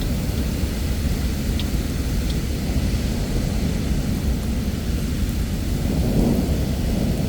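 Heavy rain falling steadily under a low, continuous rumble of distant thunder that swells about six seconds in, with a few faint drips.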